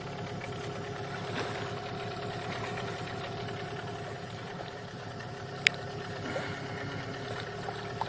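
New outboard motor idling steadily during its break-in run, the engine note even throughout. A single sharp click about two-thirds of the way through.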